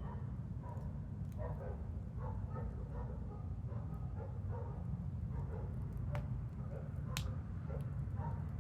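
Wood fire crackling in a chiminea, with two sharp pops about six and seven seconds in, over a steady low rumble and scattered faint short higher-pitched sounds.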